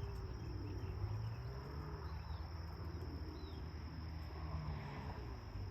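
Outdoor ambience: a steady high-pitched insect drone, like crickets, with a few faint short chirps and a low rumble underneath.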